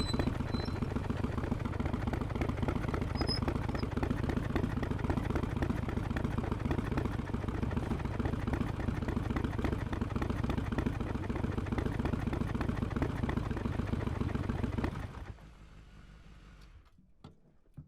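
Harley-Davidson XL1200X Forty-Eight's air-cooled V-twin running steadily through Vance & Hines Shortshots pipes with quiet baffles, then cutting off abruptly near the end as the engine is switched off. A few faint clicks follow.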